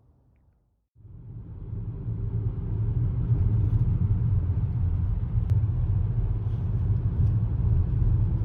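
Steady low rumble of a moving vehicle, cutting in suddenly about a second in and running on loud.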